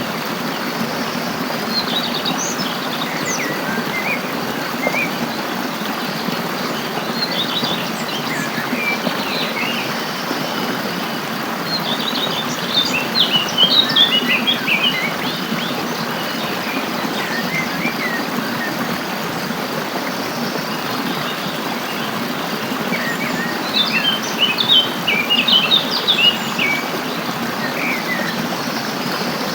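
Small songbirds chirping and twittering in short clusters over a steady rush of flowing stream water. The chirping is busiest around the middle and again near the end.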